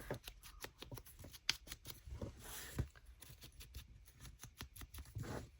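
Faint handling of paper and card: many small taps and clicks, with a brief rustle about halfway through.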